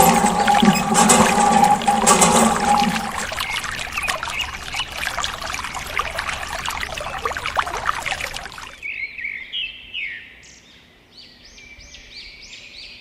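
Water pouring and splashing, with a steady hum underneath for the first three seconds. It fades out about nine seconds in, leaving a run of short, high bird chirps.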